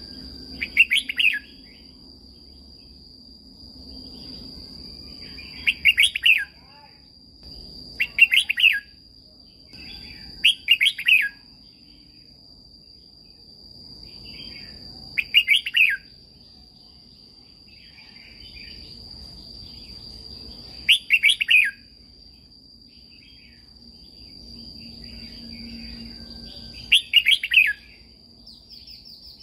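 Red-whiskered bulbul singing short, bright warbled phrases, about seven of them, each under a second long and spaced a few seconds apart, over a steady high-pitched drone.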